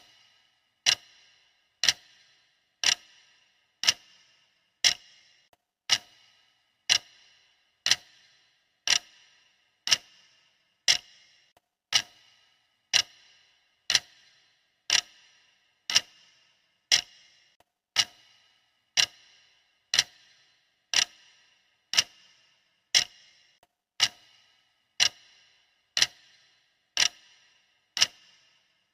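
Clock ticking steadily, one sharp tick a second, each with a brief ring.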